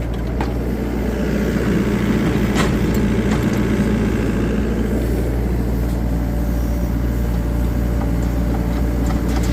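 An engine running steadily with a low, even hum, and a couple of faint clicks.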